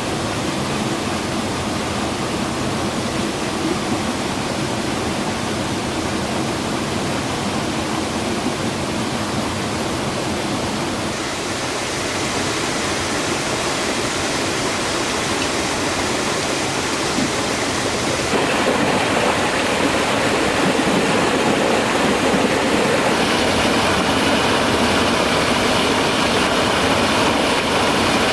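Steady rush of flowing, falling water from a highland stream. The tone changes abruptly a few times and grows a little louder about two-thirds of the way through.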